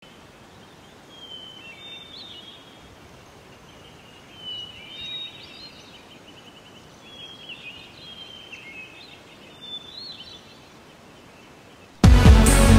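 Songbird singing short whistled and trilled phrases, about four of them a couple of seconds apart, over a steady outdoor hiss. Loud electronic music cuts in abruptly near the end.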